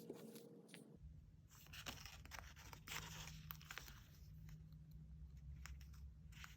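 Faint paper and sticker handling: stickers peeled from their backing and pressed down, with light rustling and small clicks. A faint low hum comes in about a second in.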